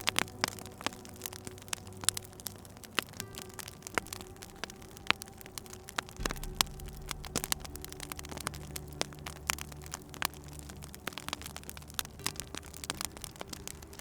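Wood fire burning in a fireplace, crackling with irregular sharp pops and snaps, several a second. Soft sustained low tones run underneath and shift about six seconds in.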